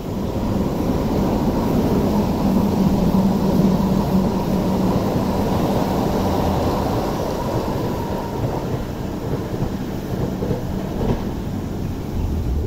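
MTR electric commuter train running along the track: a steady rumble, with a low hum through the first half.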